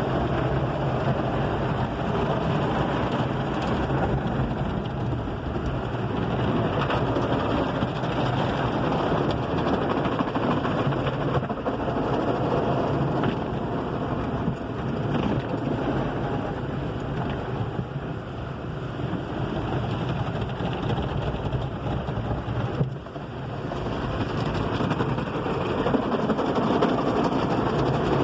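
Car wash running: water spraying in a steady rushing hiss over a constant low machine hum, with a brief drop a few seconds before the end.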